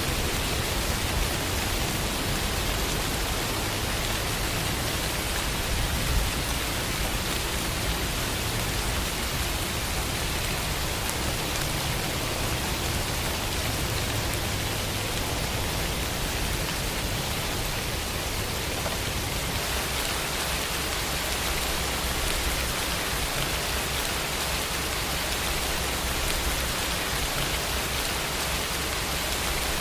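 Steady rainfall with fine patter of drops on a surface, even throughout.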